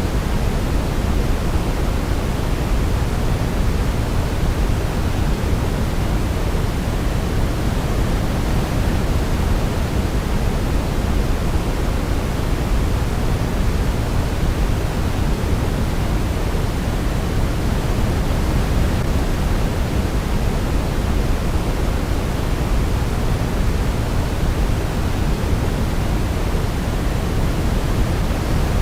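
Steady synthetic sleep noise, an even hiss weighted toward the low end like pink noise, with no melody and no change in level.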